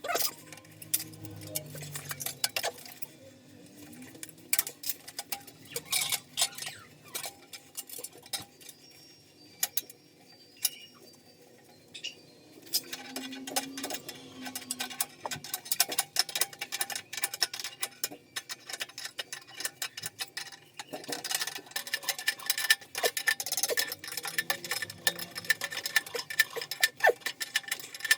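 Irregular metallic clicks, taps and clinks of hand work on heating pipe fittings, getting denser after about twelve seconds in.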